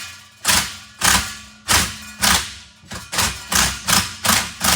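Repeated metal-on-metal blows, about ten sharp strikes roughly every half second, each ringing briefly: a hammer striking a pulley puller on a Briggs & Stratton engine to work a stuck part loose.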